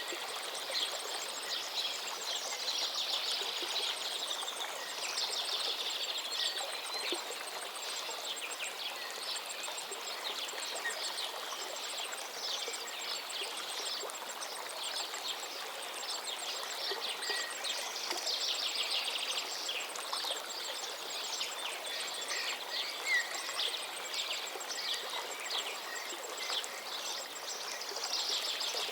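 River water flowing steadily, with many birds calling and singing over it throughout.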